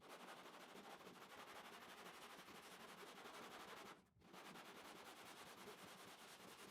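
Near silence: a faint steady hiss, with a brief dropout about four seconds in.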